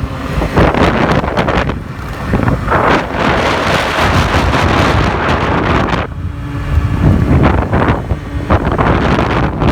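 Wind buffeting the microphone of a vehicle moving at speed, rising and falling in gusts, with engine and road rumble underneath. The wind dips about six seconds in and comes back.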